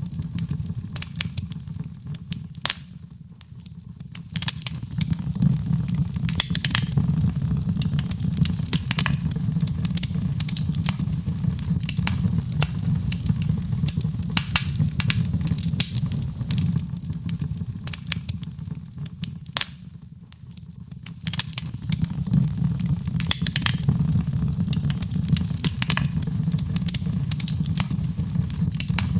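Wood fire crackling, with frequent sharp pops and snaps over a steady low rumble of the flames; the fire briefly quietens twice, about three seconds in and again near twenty seconds.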